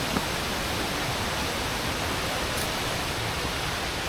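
Steady rush of a rainforest waterfall and cascading creek water, an even hiss with no breaks.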